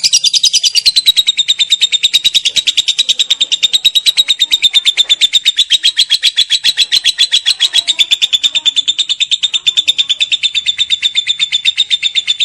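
Lovebird's long 'ngekek' song: a rapid, unbroken chatter of sharp high chirps, many to the second, held steadily for over ten seconds.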